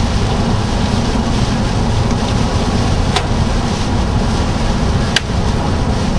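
Road and wind noise inside a moving car: a steady low rumble with a hiss over it, broken by a couple of sharp ticks, one about three seconds in and one near the end.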